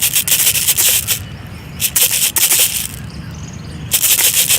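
Alexandrine parakeet giving harsh, screeching calls in three bursts about a second long each.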